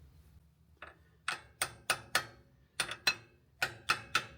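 About ten sharp, light taps, starting about a second in and coming in quick pairs, as the tight-fitting outer wheel bearing is tapped home into the caravan's brake drum hub.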